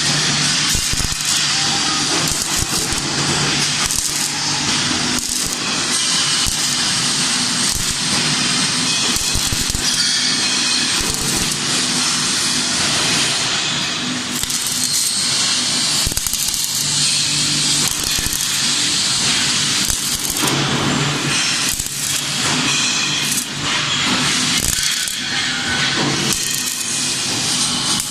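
CO2 (MIG) welding arc on mild steel sheet crackling steadily: a dense run of sharp pops over a hiss, with a low hum underneath and a few short breaks.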